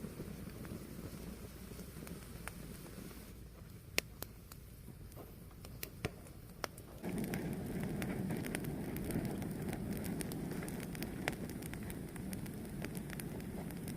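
Fire burning, with scattered sharp crackles and pops over a low, steady rush of flame that grows louder about halfway through.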